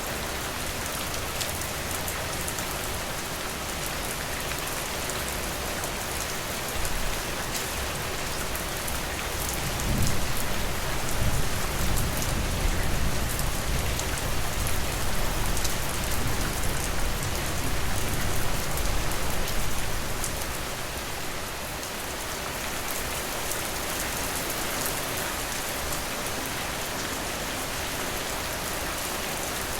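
Steady, even rainfall. About ten seconds in, a low rumble swells under the rain and fades out about twenty seconds in.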